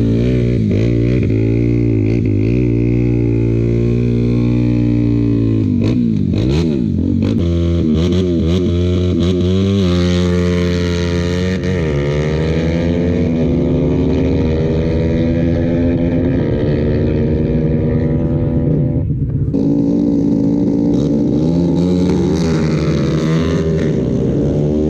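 Motorcycle engines running loud, revving and accelerating, their pitch climbing and dropping repeatedly as the bikes rev and shift, with a sharp break about 19 seconds in.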